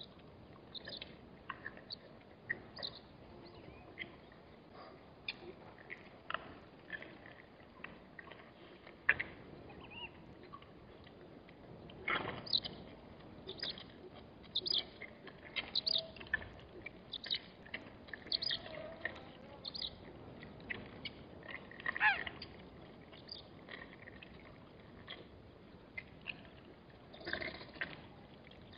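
Scattered short bird chirps and calls, several a few seconds, busiest in the middle, over a faint steady outdoor background.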